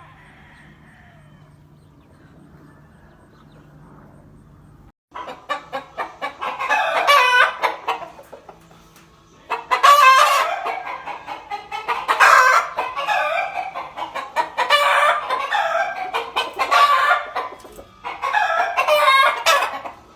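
Gamefowl roosters crowing: from about five seconds in, several loud crows follow one after another, some overlapping. Before that there is only a faint low hum.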